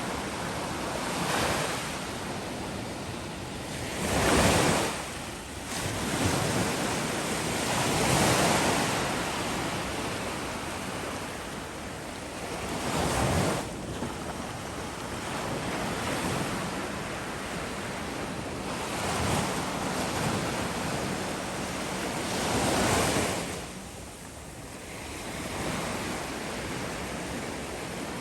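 Black Sea waves washing onto the shore, a swell breaking every four to six seconds over a steady rush of surf, with wind blowing on the microphone.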